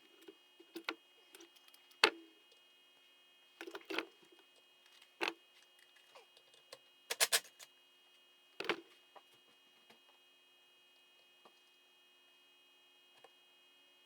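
Tools and metal parts clicking and clinking as a Yamaha YZ85 engine is being taken apart: about a dozen separate sharp knocks, the loudest about two seconds in and a quick cluster of three a little after seven seconds, thinning out toward the end.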